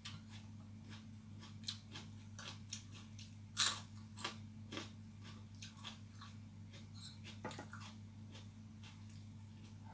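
Close-up eating sounds of pigeon being eaten with raw chillies: irregular wet chewing and crunchy bites, the loudest bite about three and a half seconds in. A steady low hum runs underneath.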